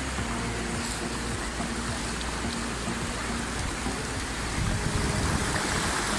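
Steady rushing noise of sea surf and wind at the beach, swelling a little near the end.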